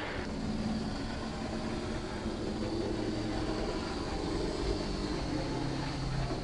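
OO gauge model diesel locomotive running on the layout: a steady low hum whose pitch shifts partway through.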